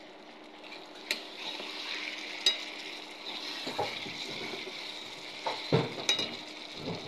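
Chicken pieces in spice masala sizzling in a wok while a spatula stirs and turns them. The sizzle grows after about a second, with a few sharp clinks of the spatula on the pan and duller thuds as the meat is moved.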